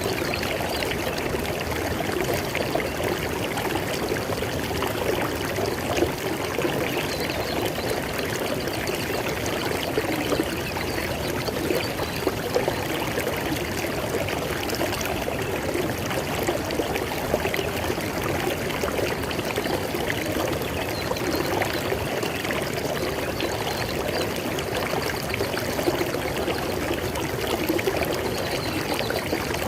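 River water flowing and splashing over rocks: a steady, dense rush with small splashes and gurgles throughout.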